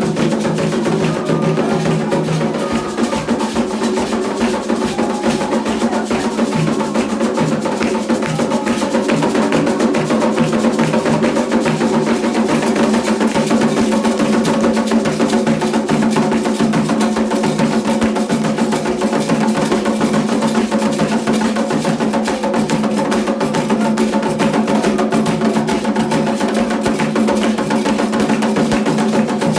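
Candomblé ritual drumming: atabaque hand drums playing a fast, steady rhythm with a sharp clicking percussion beat over it.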